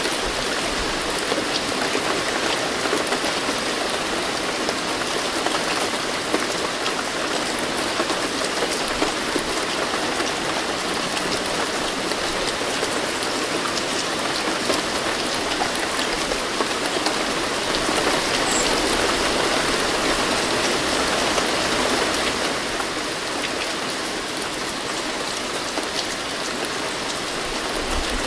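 Steady rain falling, a dense patter of many drops, slightly heavier for a few seconds past the middle.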